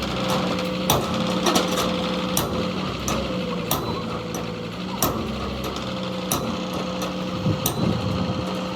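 Irregular hammer knocks, roughly one a second, over a steady machine hum.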